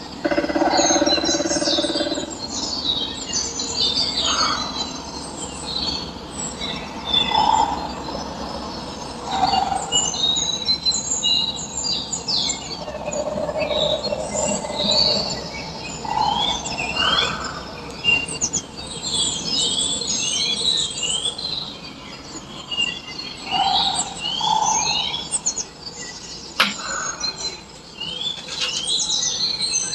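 Many birds chirping at once: a dense chorus of short, quick calls throughout, with a few lower calls now and then.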